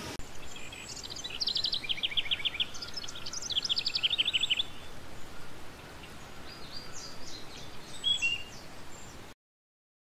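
Small birds chirping in quick runs of high, evenly repeated notes over a steady hiss, busiest from about a second and a half to five seconds in, with a few more chirps later. The sound cuts off suddenly about nine seconds in.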